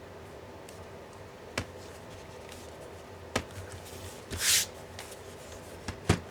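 Hands handling a laptop and tools on a work surface: a few sharp clicks and taps, with a short scraping hiss about four and a half seconds in, the loudest sound, over a faint steady hum.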